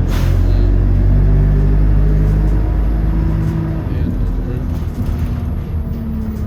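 City bus diesel engine running under way, a loud low drone whose pitch shifts a few times, easing slightly after about four seconds.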